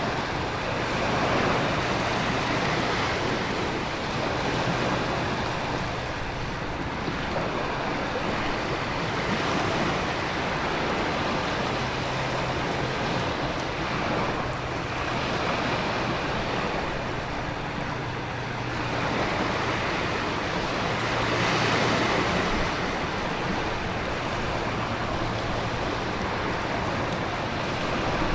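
Storm ambience of heavy rain and ocean surf with wind, a dense steady wash that swells every few seconds as waves surge in. A faint low hum runs underneath.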